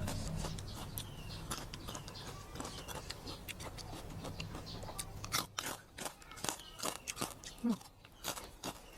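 Crunchy chewing and biting close to the microphone: crisp crunches and clicks that come thick and fast over the last few seconds, over a low hum that fades out about halfway through.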